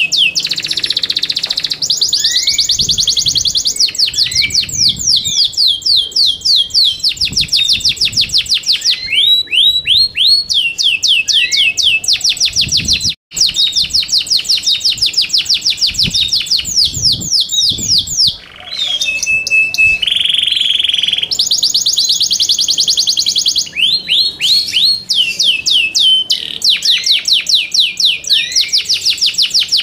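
Yorkshire canary singing: long, fast trills of rapidly repeated falling notes, broken by brief pauses, with a held steady note about two-thirds of the way through.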